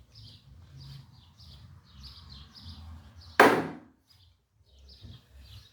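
A single sharp knock a little past halfway, with a short ringing tail, as a part of a Briggs & Stratton engine is knocked or set down on the workbench during teardown. Small birds chirp over and over in the background.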